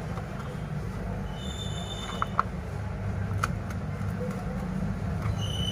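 Hand-tool work on a smartphone being taken apart: a few small sharp clicks and two short high squeaks, over a steady low hum.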